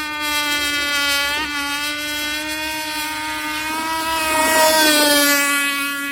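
Motorboat engine running at high revs, a steady high-pitched whine that dips briefly about a second and a half in. A rush of noise rises over it around four to five seconds in.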